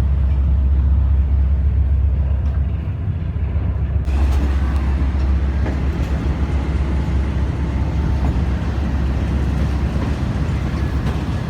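ZCU-30 diesel-electric locomotive running steadily with a deep, even drone; about four seconds in a broader hiss rises over it.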